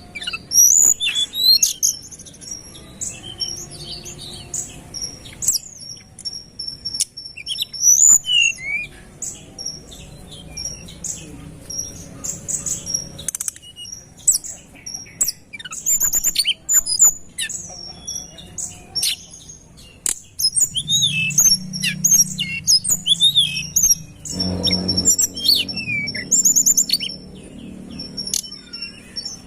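Tledekan gunung singing without pause: quick chirps, short rising and falling whistles and rapid trills, packed close together and mostly high-pitched. A faint low rumble sits under the song, strongest near the end.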